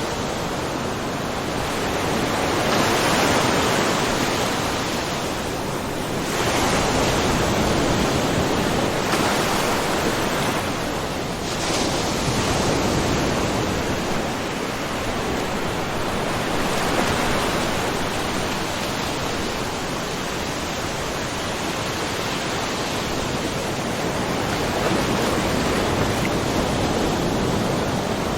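Small ocean waves splashing and washing along a shoreline, in a steady wash of noise that swells and eases every few seconds.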